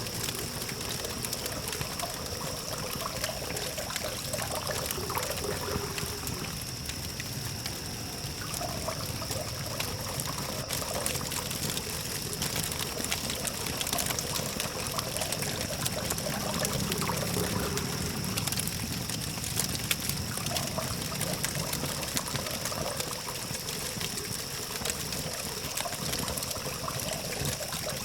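Campfire burning with steady hissing and frequent small wood crackles and pops, over a low distant traffic hum and a steady high-pitched tone.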